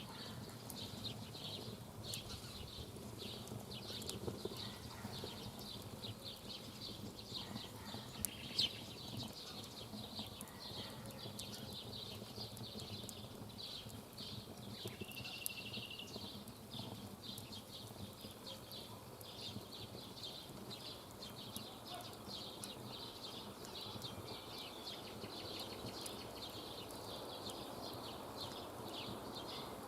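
Campfire wood burning with a dense, irregular crackle of small pops and snaps.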